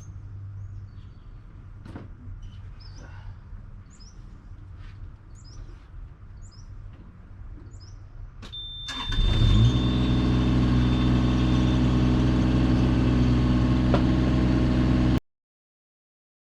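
Birds chirping and a few sharp clicks. About nine seconds in, the engine of a rented digging machine starts and runs loud and steady, then cuts off suddenly.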